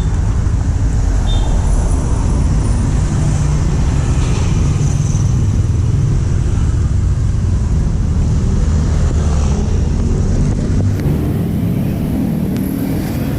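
Honda Astrea Prima 110cc single-cylinder four-stroke motorcycle engine running steadily through a custom underbelly exhaust with resonator. A high hiss joins about eleven seconds in.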